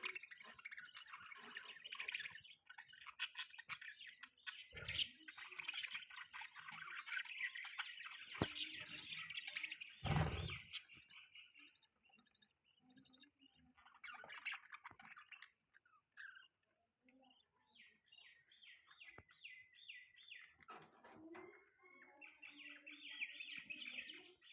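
Budgerigars chirping and warbling in a dense, busy chatter for the first ten seconds or so, then sparser, with a quick run of evenly repeated chirps past the middle and more chatter near the end. Two dull thumps stand out about five and ten seconds in.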